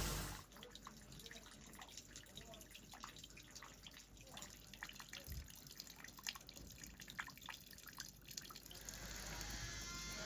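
Faint, irregular small clicks and ticks, with a soft steady hiss setting in about nine seconds in.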